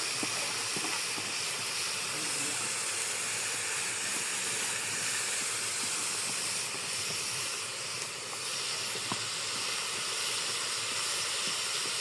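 Food cooking in a pot: a steady hiss with a few faint scattered crackles.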